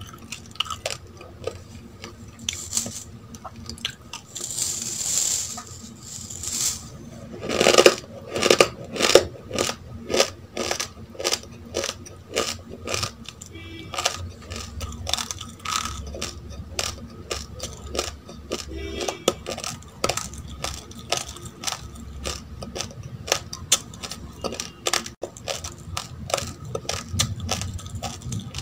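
Raw, uncooked rice grains being crunched between the teeth: a long run of sharp, rapid crunches, loudest about eight seconds in.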